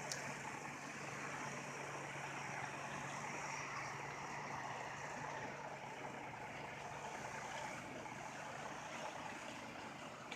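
Stuck semi-truck's engine running with a steady low hum, under an even hiss.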